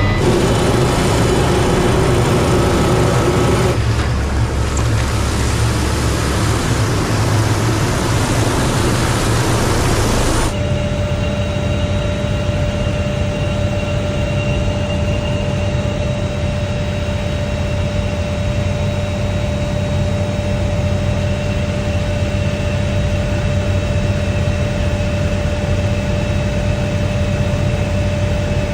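Helicopter running steadily: a loud engine drone with a constant turbine-like whine. The sound shifts abruptly about four seconds in and again about ten seconds in.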